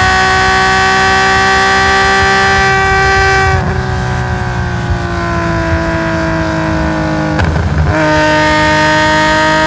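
Nissan S20 2.0-litre straight-six in a race-tuned Skyline GT-R, heard through its straight-through stainless exhaust, running loud at high revs. About three and a half seconds in the throttle comes off and the note drops in level and falls slowly in pitch. Near the end of that a brief rough blip sounds, then it goes back on the throttle, loud again, with revs climbing.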